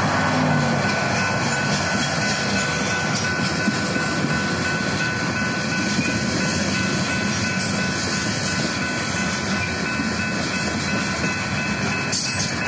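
Covered hopper cars of a slow-moving grain train rolling over a grade crossing with steady wheel-on-rail noise. The crossing's General Signal type 3 electronic bells ring throughout.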